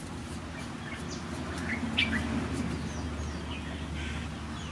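Small birds chirping: a few scattered short chirps, the loudest about two seconds in, over a low steady background hum.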